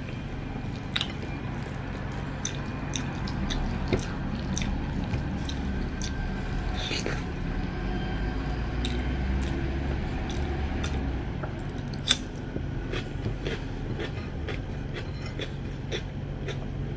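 Close-up chewing and wet mouth sounds of someone eating rice and curry, with frequent small lip-smacks and clicks and a sharper click about four seconds in and again near twelve seconds, over a steady low background hum.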